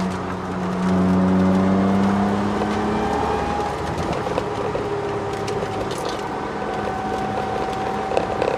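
Ford Sierra XR4x4's twin-turbo V6 pulling hard, heard from inside the car. The engine climbs in revs with a brief dip just after the start, like a gear change, then eases off about three seconds in. A steady whine comes through later, which the owner puts down to the solid diff mount and poly bushes passing drivetrain noise into the car.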